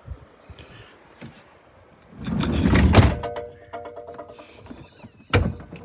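A campervan door being pulled open with a loud rumble about two seconds in, a steady chime-like tone for a couple of seconds, then the door shut with a sharp thunk near the end.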